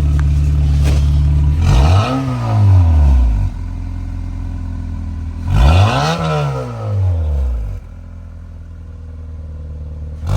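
Honda Civic engine idling through a freshly installed Spec D Tuning aftermarket exhaust with its silencer insert fitted, then revved twice, each rev rising and falling back to idle over about two seconds. A third rev starts at the very end.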